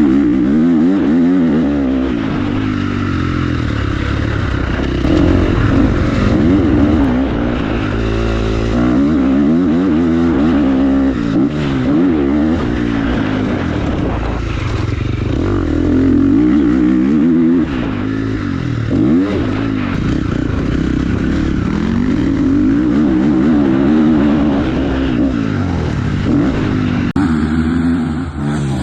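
Dirt bike engine revving up and down again and again as it is ridden, its pitch rising and falling every second or two.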